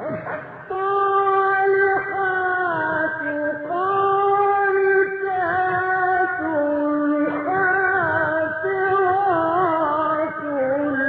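A man chanting Quran recitation in the melodic mujawwad style. He holds long notes with ornamented turns and glides, and his voice comes in suddenly after a quieter pause.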